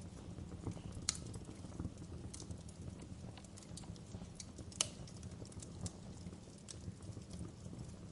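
Wood fire crackling in a fireplace: a steady low rumble of the flames with irregular pops and snaps of burning wood, two sharper pops about a second in and near five seconds in.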